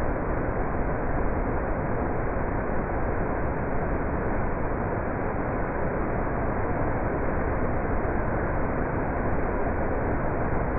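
Man-made waterfall, water pouring and splashing in a steady, unbroken rush.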